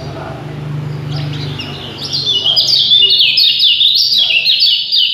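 A songbird singing a fast, dense run of short chirping notes, getting louder about two seconds in. This is the rapid, tightly packed kind of song that bird keepers use to rouse other songbirds. A low steady hum lies under the first two seconds.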